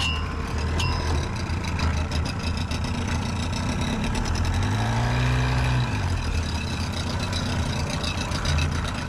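An engine running steadily, with a brief rise and fall in pitch about five seconds in.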